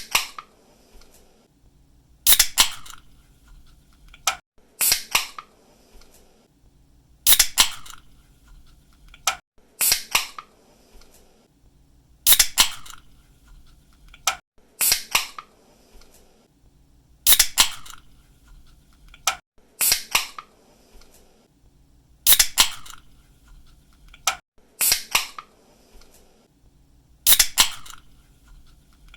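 Pull-tab aluminium drink can being cracked open again and again, about every two and a half seconds. Each opening is a sharp snap of the tab with a short hiss close behind it, and a fainter single click falls between some of them.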